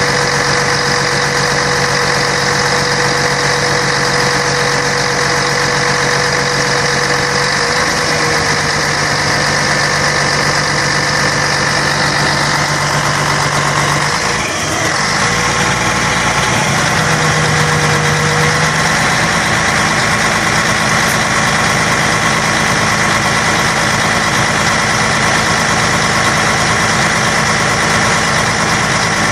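Scania K113 bus's 11-litre straight-six diesel engine running steadily, its tone shifting about eight seconds in and again around fifteen seconds, where the sound briefly dips.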